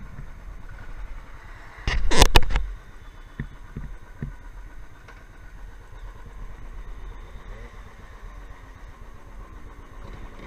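Motorcycle engines running at idle, with a sudden loud rush of noise about two seconds in that lasts under a second.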